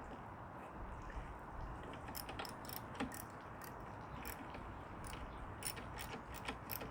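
Irregular light clicks and taps of hand work on a lawn mower's carburetor parts, coming thick from about two seconds in.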